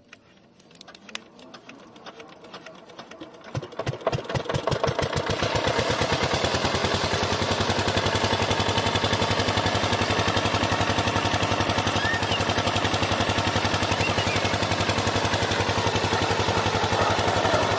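An 8 hp diesel engine on a water pump set being started. Slow separate beats quicken and grow louder over the first few seconds, then the engine catches and settles into steady running with an even, rapid beat.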